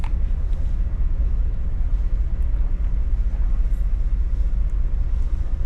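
Steady low rumble of a ferry's engines and machinery running on board, heard over the deck.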